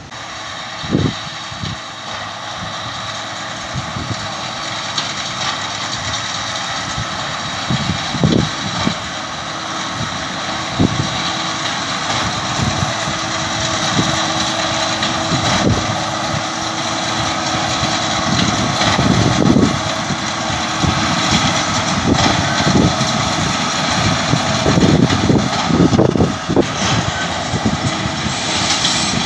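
John Deere tractor engine running steadily as it works a straw baler, growing gradually louder as it comes nearer, with wind buffeting the microphone.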